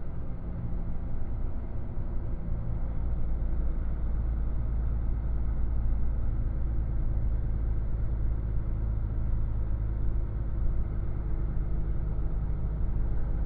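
A vehicle's engine running steadily with a low hum.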